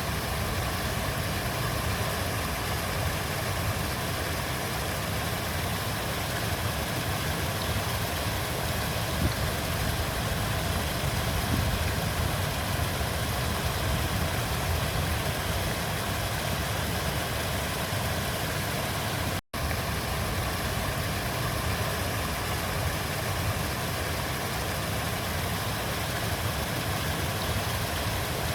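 Steady rushing of a flowing river, an even wash of water noise, broken once by a split-second gap of silence about two-thirds of the way in.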